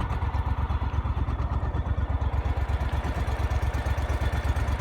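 Boat motor running steadily with an even, low throb.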